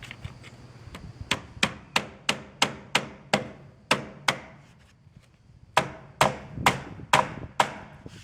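Hammer driving nails, a quick run of about nine even blows, a pause of about a second, then five more blows, each strike with a short ring.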